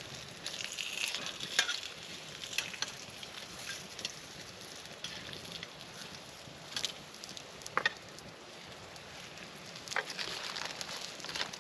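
Spam sizzling in a skillet over a campfire: a steady frying hiss with sharp pops every second or two.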